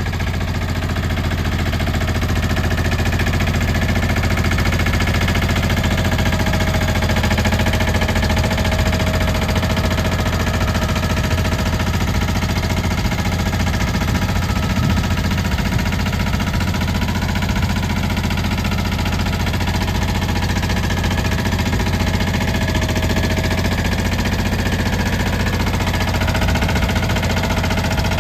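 Small tractor's diesel engine running at a steady speed.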